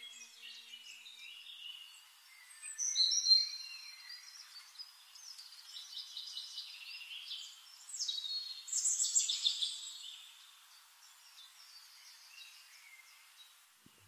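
Several birds chirping and whistling in high, gliding notes, with louder clusters of calls about three seconds in and again around nine seconds.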